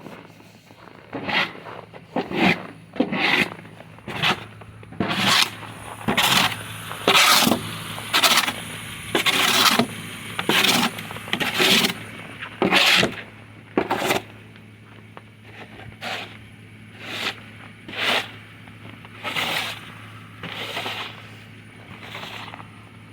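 Snow being cleared by hand with repeated scraping strokes, about one a second, louder through the middle, over a low steady hum.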